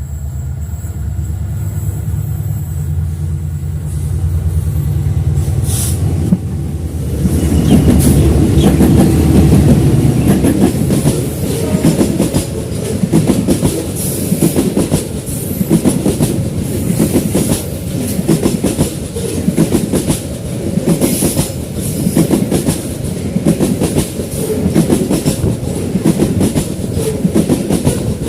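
Babaranjang long coal train passing close by. A diesel locomotive's engine rumbles through the first several seconds, then, from about seven seconds in, a string of coal wagons rolls past with a loud, rhythmic clickety-clack of wheels over the rail joints.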